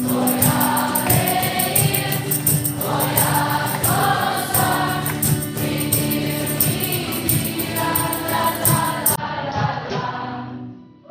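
Choir music with a steady beat; the beat drops out about nine seconds in and the music fades out near the end.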